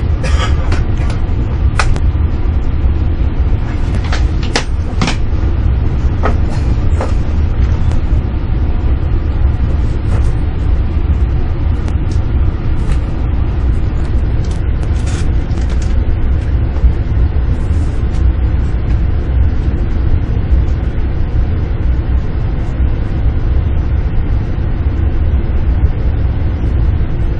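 Max double-decker Shinkansen train heard from inside the passenger car while moving: a steady low rumble from the running gear, with several sharp clicks and knocks in the first few seconds.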